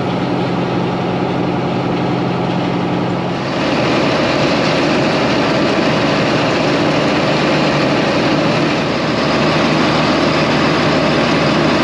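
John Deere 4755 tractor's diesel engine running steadily; about three and a half seconds in the sound turns louder and fuller and holds there.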